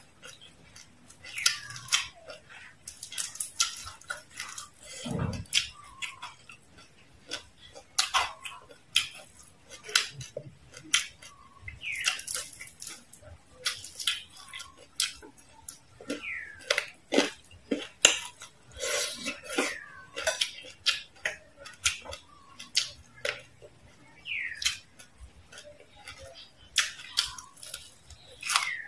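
Close-up chewing of crispy deep-fried frog: a dense, irregular run of sharp crunches and wet mouth smacks.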